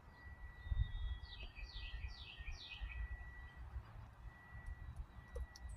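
A bird sings a quick series of four down-slurred chirps, starting just over a second in, over a faint steady high tone and a low rumble.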